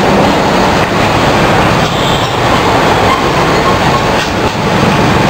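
Loud, steady noise of heavy metalworking machinery running.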